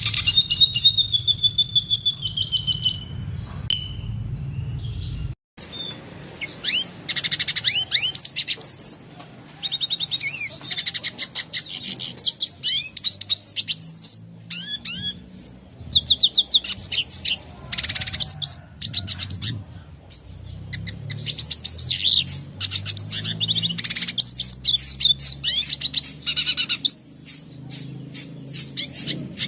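Red siskin singing: a fast, continuous stream of high twittering chirps and short trills, with a brief break about five seconds in.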